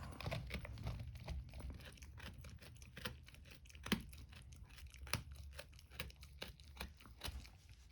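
Dog gnawing on a rawhide bone: irregular crunching and cracking, with a couple of sharper cracks midway.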